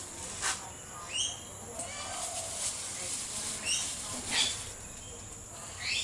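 Several short, high bird chirps and calls, each rising in pitch, spaced about a second or two apart.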